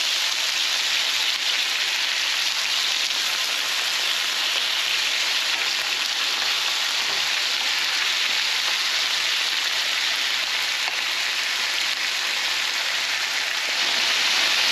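Cubed chicken breast sizzling steadily in hot olive oil in a skillet as it sears to golden, a little louder near the end.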